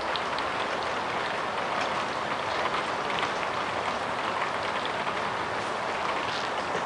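Steady rain falling: a constant hiss with light pattering drops.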